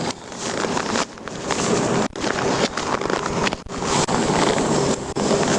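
Wind rushing over the microphone, an even hiss with a couple of brief sudden dips.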